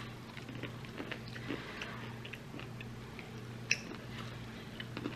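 Someone chewing and biting into a piece of chicken: soft, scattered mouth clicks and smacks, one a little sharper just before four seconds in. A steady low hum sits underneath.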